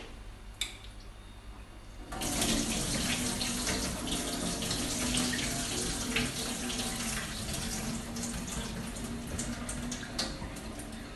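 Kitchen tap running water into a sink. It comes on suddenly about two seconds in, after a couple of clicks, and runs steadily until it eases near the end.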